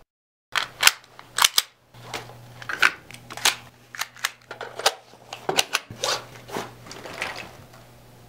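Guns being handled and loaded: a quick run of sharp metallic clicks and clacks of slides, actions and magazines, over a steady low hum.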